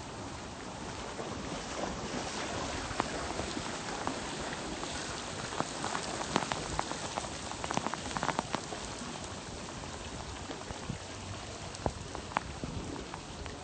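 Steady rain falling on floodwater, an even hiss with a cluster of close, sharp drop taps around the middle.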